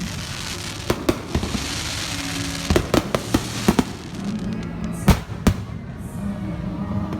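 Fireworks bursting: a series of sharp bangs, bunched about a second in, around three seconds in and around five seconds in, with crackling between them, over steady background music.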